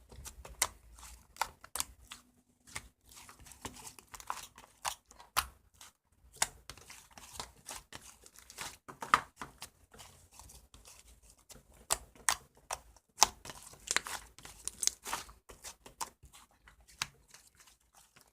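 Close-up crinkling and rustling of thin sheet material being handled, with irregular sharp crackles several times a second and short pauses between handfuls.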